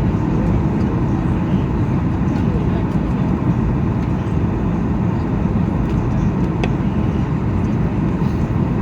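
Steady cabin noise of a Boeing 737 MAX 8 on approach: an even low rumble of its CFM LEAP-1B engines and the airflow over the fuselage, with no change in pitch or level.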